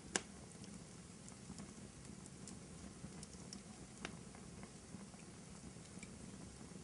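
Wood fire crackling in a fireplace: a low steady hiss with scattered small ticks, a sharp pop just after the start and another about four seconds in.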